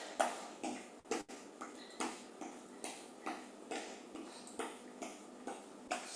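Footsteps of marching in place, feet landing on the floor in a soft, even rhythm a little over twice a second.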